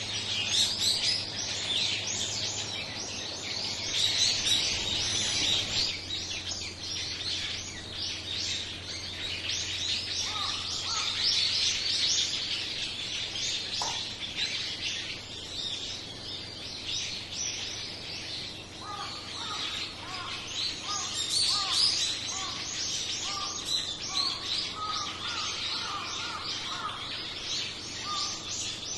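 A flock of small birds chirping and calling continuously, many short high calls overlapping. A lower call repeated in a steady series joins about ten seconds in, and again from a little before the twenty-second mark.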